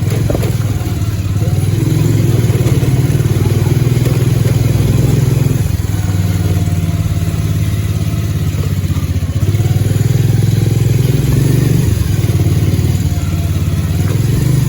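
Bajaj Pulsar 150 motorcycle's single-cylinder engine running steadily and loudly, its note easing briefly about six seconds in and again near twelve seconds.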